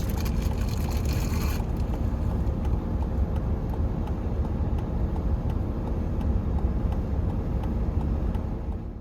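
Steady low rumble of a vehicle running, with a hiss over the first second and a half; it fades out at the very end.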